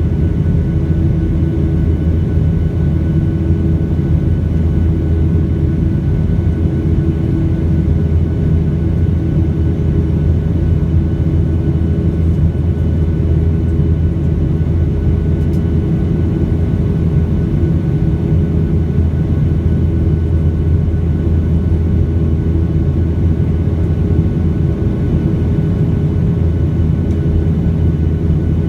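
Boeing 737 in flight, heard from inside the cabin: a steady drone of engines and rushing air, with a few faint steady tones above it.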